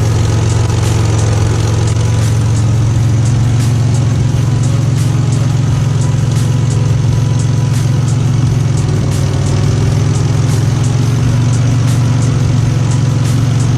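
A Buick Grand National's turbocharged V6 idling steadily, with faint regular clicks over the engine note. The exhaust still leaks at the driver-side manifold flange.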